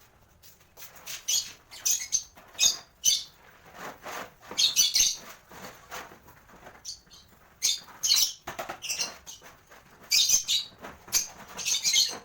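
Pet lovebirds chirping: many short, shrill high-pitched calls in irregular bunches.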